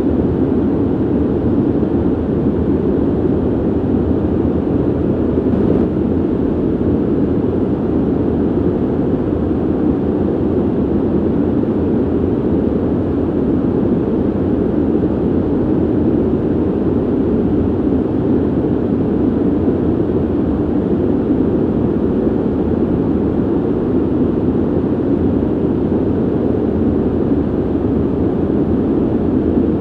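Steady ventilation noise: an even, low rushing of air with no changes.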